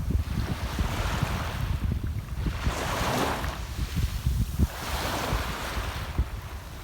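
Small sea waves washing in at the shore, swelling and fading about three times, with wind buffeting the microphone as a low rumble.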